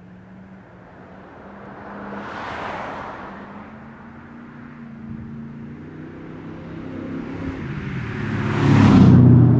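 1998 Pontiac Firebird Formula's LS1 V8, breathing through a MagnaFlow high-flow catalytic converter and a glasspack, accelerating toward and past the microphone. The engine note rises in pitch over the second half and is loudest near the end as the car goes by. A brief rush of noise comes about two and a half seconds in.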